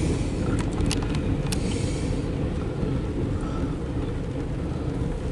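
Steady low rumble of a freight train running past, with two sharp metallic clicks about one and one and a half seconds in.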